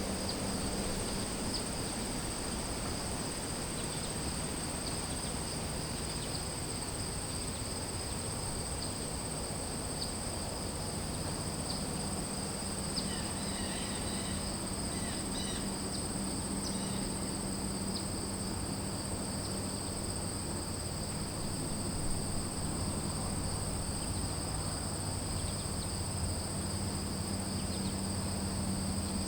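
Outdoor nature ambience of insects calling continuously in two steady high-pitched bands, like a chorus of crickets. A low steady hum lies underneath, and a few short high chirps come about halfway through.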